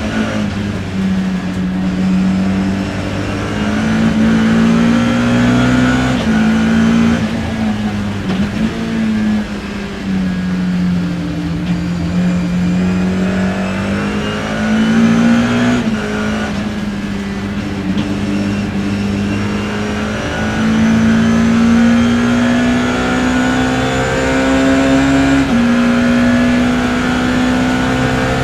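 BMW E30 M3's four-cylinder S14 racing engine heard from inside the car, pulling hard under load. Its pitch climbs slowly and drops suddenly at each gear change, several times.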